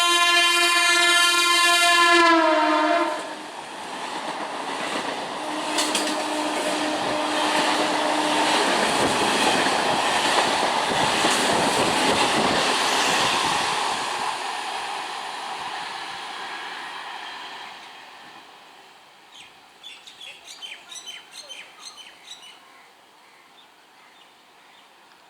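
Indian Railways train blowing a long horn that drops in pitch as the train passes, then the roar of the train rushing past at high speed, fading away over several seconds. Faint rapid ticking follows near the end.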